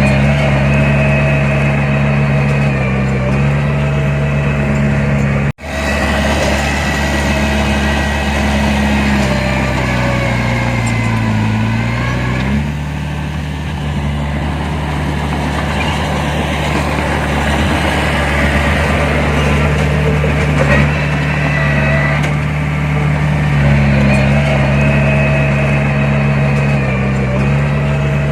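Heavy diesel engine of earthmoving machinery running steadily, its pitch sagging briefly about ten seconds in and then recovering. The sound cuts out for an instant about five seconds in.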